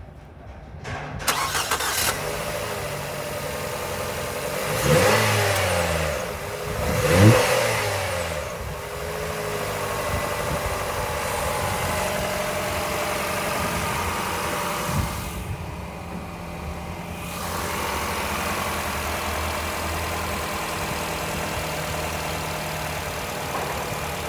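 2011 Nissan X-Trail engine starting about a second in and settling to an idle, revved up and back down twice around five and seven seconds in, then idling steadily for an engine test.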